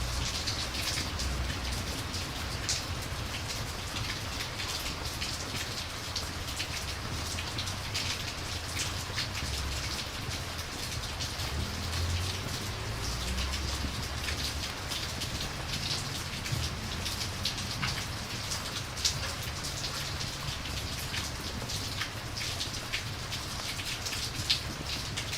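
Steady rain: a continuous hiss with many scattered sharp ticks of drops, over a low rumble that swells now and then.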